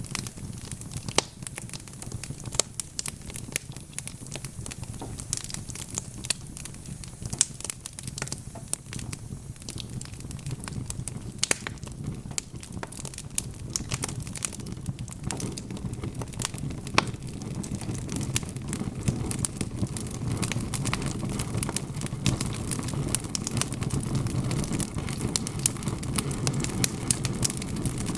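Wood fire crackling: irregular sharp snaps and pops from burning logs over a low steady rumble of flame, the rumble growing a little louder in the second half.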